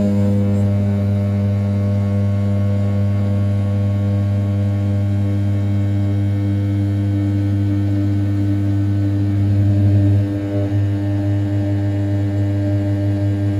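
500 W brushless spindle of an RZ420 desktop CNC router running at 6000 rpm, its end mill roughing the outer profile of an A7075 aluminium block: a steady humming tone with overtones. It swells briefly about ten seconds in, then eases back.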